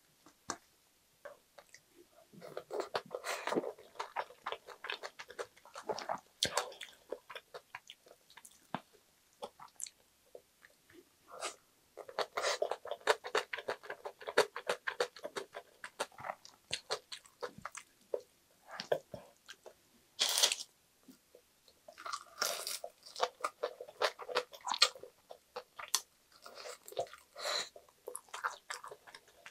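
Close-miked chewing of a mouthful of bibimbap heavy with yeolmu (young radish) kimchi: crisp, crunchy chewing that comes in bursts with short pauses between. About twenty seconds in there is one single louder sharp sound.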